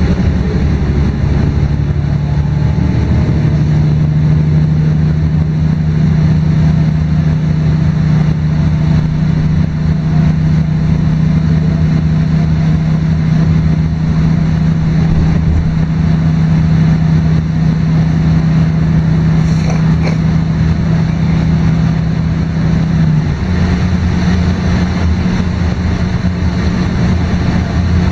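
LiAZ-5292.22 city bus's diesel engine running under way, heard from inside the bus: a steady drone that rises slightly in pitch about three seconds in and steps higher again near the end.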